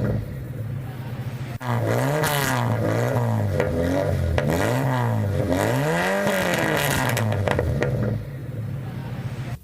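Suzuki Esteem 1.3 GT's 1.3-litre engine blipped about four times from idle and dropping back, through an exhaust with its muffler removed: one resonator, then straight pipe. It settles back to idle near the end.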